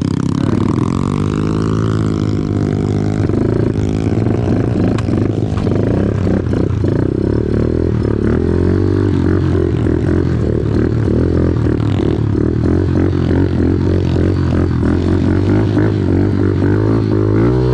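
Off-road vehicle engine running under changing throttle on a muddy trail, its pitch rising and falling, most plainly in the first few seconds.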